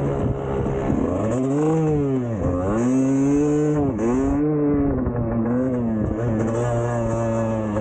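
Two-stroke dirt bike engine revving hard under throttle, its pitch rising and falling over and over with sharp drops about two and a half, four and six seconds in.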